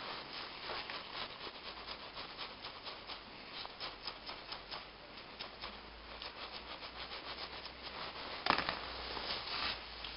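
Quick back-and-forth rubbing strokes on a Peugeot 206 1.1-litre petrol cylinder head as it is cleaned, about four strokes a second. A louder, longer scrape comes about eight and a half seconds in.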